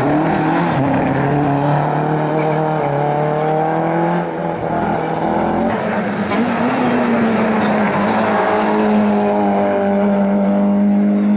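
Competition car engine revving hard on a hillclimb, its pitch rising under acceleration and falling at the gear changes and lifts. The sound changes abruptly about six seconds in, as another stretch of running begins.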